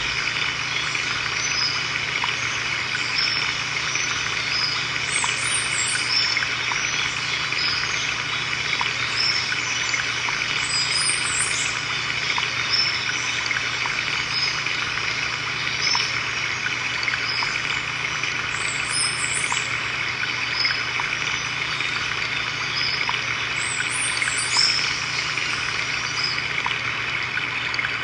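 Water trickling and splashing steadily, as from a small waterfall, with groups of high bird chirps every few seconds.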